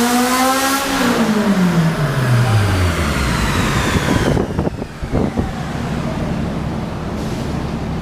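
Honda Civic Si four-cylinder engine revved up, held high for about a second, then the revs falling back over about two seconds to a steady idle. A few knocks come about five seconds in.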